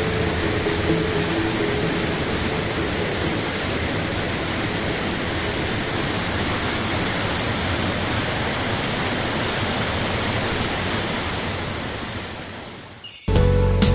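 Steady rush of fast-flowing water, an even hiss across low and high pitches, fading out near the end.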